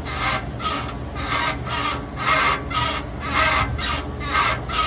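Rhythmic rasping scrape of steel parts rubbing at the exhaust joint near the engine of a 2020 Prius Prime, about two strokes a second, as the engine is worked with a pry bar on the transmission mount. The mechanic takes the exhaust gasket at this movable joint for the most likely source of the car's noise, though other steel parts rubbing together could be to blame.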